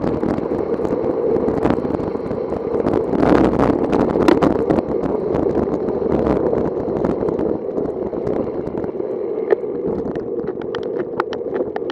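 Wind rushing over the microphone of a bicycle moving at speed, a steady loud rush, with scattered sharp clicks and knocks that come more often near the end.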